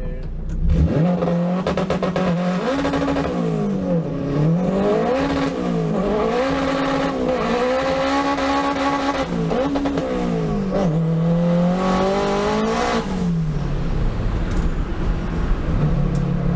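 Turbocharged Honda K20 four-cylinder in an EK Civic race car under hard acceleration. The revs climb and fall several times, then drop back to a steadier, lower note near the end.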